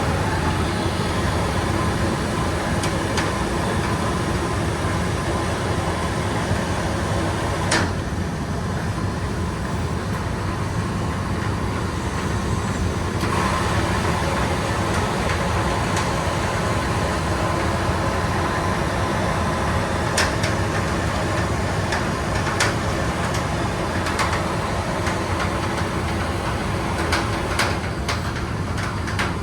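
Steady rumble and hiss of steam boiler-room equipment running, with a faint steady hum-like tone and a few scattered clicks.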